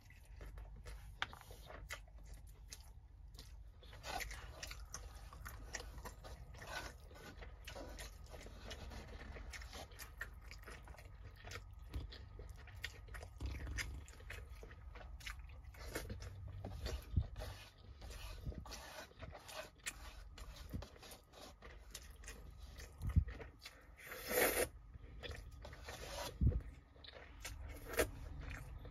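Close-up chewing and mouth sounds of someone eating rice and chicken by hand, with irregular wet clicks. There are a couple of louder crunches about 23 and 24 seconds in.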